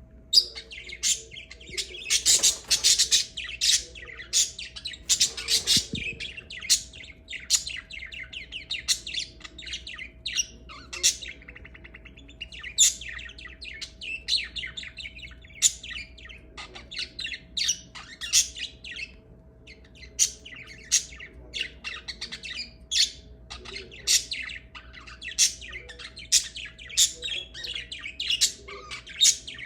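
Pet lovebirds chirping and chattering: a steady run of sharp, high chirps, with denser bursts of chatter about two and five seconds in. A faint steady hum sits underneath.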